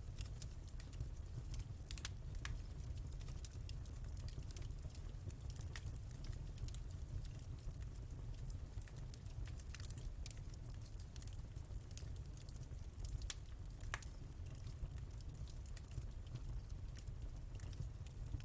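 Wood fire in a fireplace crackling: frequent small sharp pops and snaps over a steady low rumble, with a few louder pops.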